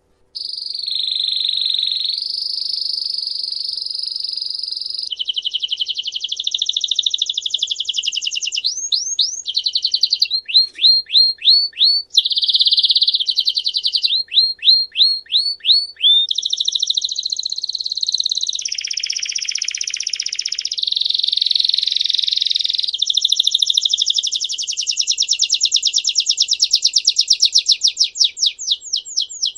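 A songbird singing a long continuous song of rapid trills, each held for a second or more at one pitch before switching to the next, with runs of quick down-sweeping notes in the middle and near the end.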